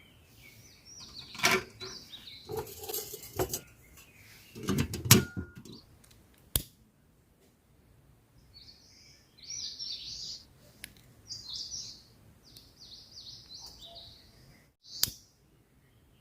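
Forest birds chirping in a run of short, high notes in the second half, after a burst of knocks and clatter from something being handled in the first few seconds, with a sharp click in between and another knock near the end.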